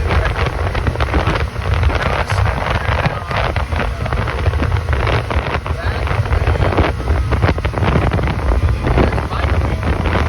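26-foot Rendezvous boat running on plane: a steady low engine drone under the rush of water along the hull, with heavy wind buffeting the microphone.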